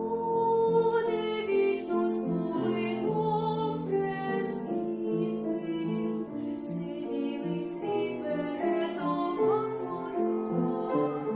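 A female vocalist singing a Ukrainian song over instrumental accompaniment, the notes held and gliding over a continuous backing.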